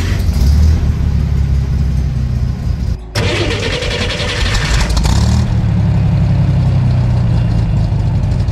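Rebuilt air-cooled flat-six of a 1965 Chevrolet Corvair Monza running just after starting, heard first from inside the car. About three seconds in it is heard at the exhaust tip, briefly harsher and louder before settling into a steady idle. The exhaust has glass-pack mufflers that the owner suspects were welded in backwards, and he calls it pretty loud.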